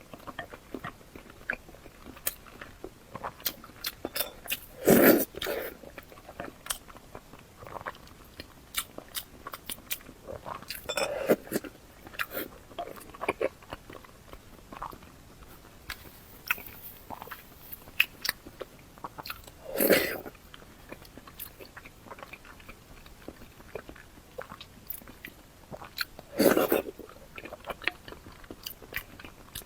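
Close-miked mouth sounds of a person biting and chewing soft-boiled eggs: a steady run of small wet clicks, with four louder bites spread several seconds apart.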